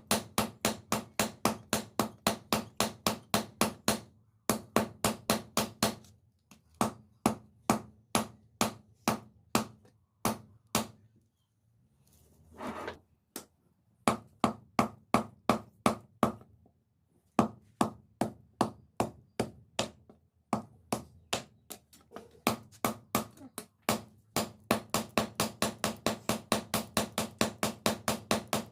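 Hand-forging on an anvil: hammer blows on steel in quick, even runs of about three or four strikes a second, broken by short pauses. Midway through, the longest pause holds a brief rasping noise.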